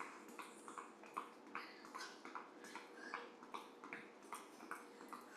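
Light, quick footfalls of a person hopping in running shoes on the floor during a cardio move, about two to three landings a second. A faint steady hum sits underneath.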